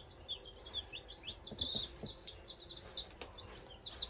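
A brood of baby chicks peeping: many short, high chirps overlapping continuously.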